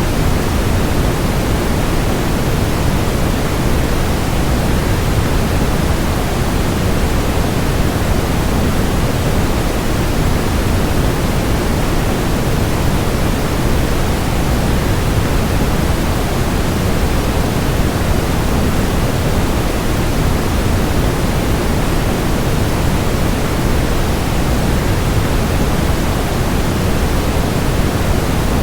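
Waterfall rushing as a steady, unchanging noise, heaviest in the low end, with no separate splashes or changes.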